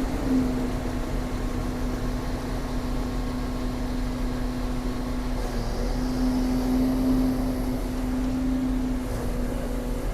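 Excavator's diesel engine running steadily, with a constant mid-pitched hum over a low rumble.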